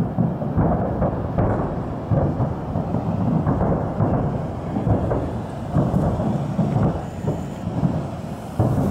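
Distant salute fireworks booming, a continuous low rumble of many overlapping bangs, several a second.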